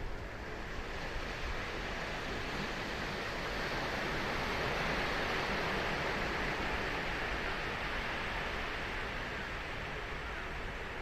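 Ocean surf breaking and washing on the beach, a steady rush that swells about halfway through and then eases off.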